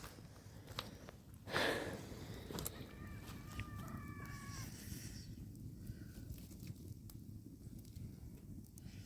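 A rooster crowing once, starting about a second and a half in with a loud harsh note and drawing out into a held call for about three seconds, over a steady low rumble.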